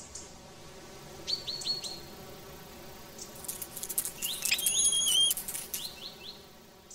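Birds chirping: short high chirps in quick runs of three or four, with a longer whistled note in the middle.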